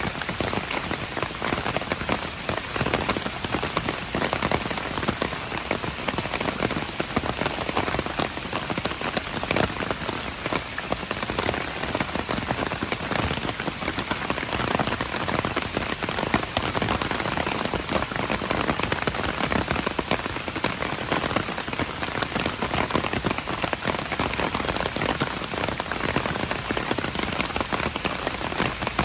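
Steady rain falling, a dense patter of countless individual drops with no letup.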